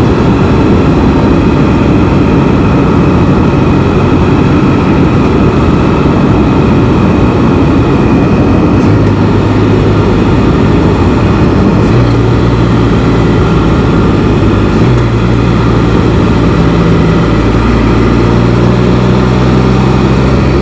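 Can-Am Spyder three-wheeled motorcycle riding along at road speed: a steady engine note under a constant rush of wind and road noise, the engine pitch shifting in steps a few times.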